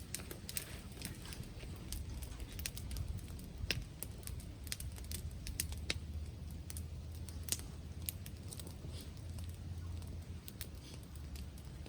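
Wood bonfire crackling, with irregular sharp pops and snaps. A steady low rumble of wind on the microphone lies underneath.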